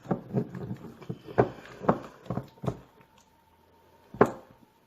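Slime being worked by hand in a small pot, the pot knocking against the table: a quick run of irregular knocks, then a louder single knock about four seconds in.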